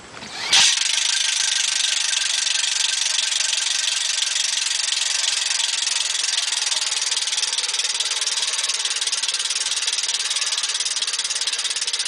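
An 18-volt cordless drill driving a boat lift's winch through a speed-reducer gearbox, starting about half a second in and then running at a steady, fast buzz under load.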